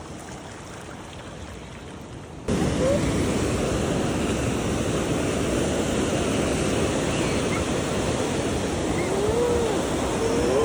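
Ocean surf breaking on a beach, a steady rushing noise that jumps suddenly louder about two and a half seconds in. A few faint, brief calls can be heard near the end.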